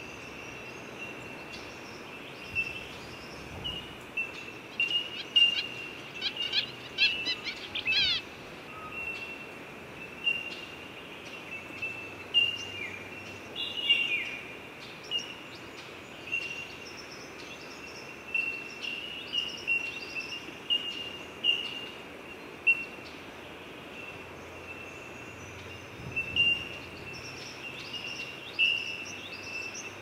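Small birds chirping: many short, high chirps repeated irregularly, with a quick flurry of sweeping notes about seven to eight seconds in, over a steady background hiss.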